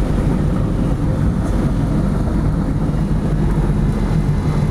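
Diamond DA20 Katana's piston engine running steadily at low power, a low drone heard inside the cockpit.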